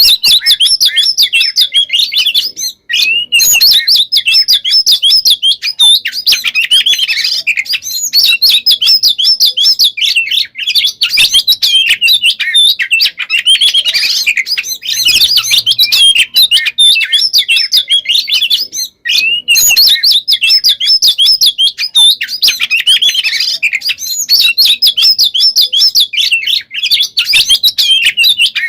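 Oriental magpie-robin (kacer) in full, nonstop song: rapid, dense runs of varied whistles and trills with mimicked phrases, broken only by brief gaps about every eight seconds. It is the long, unbroken 'konslet' style of a bird in top singing condition.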